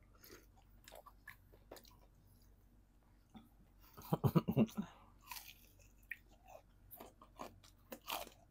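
Close-miked biting and chewing of crispy fried chicken: scattered crunches and wet mouth clicks, with a louder run of crunching about four seconds in.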